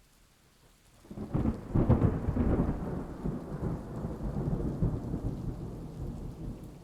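A long roll of thunder over rain, breaking in about a second in, loudest at first and slowly dying away.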